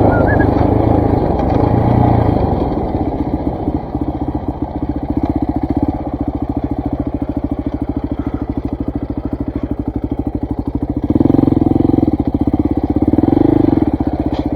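KTM 400 MXC's single-cylinder four-stroke dirt bike engine running at low revs with an even, distinct firing beat, opened up twice near the end.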